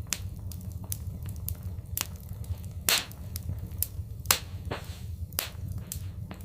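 Wood fire burning in a fireplace: a steady low rumble under irregular crackles and sharp pops, the loudest crack about three seconds in and two more sharp pops a little later.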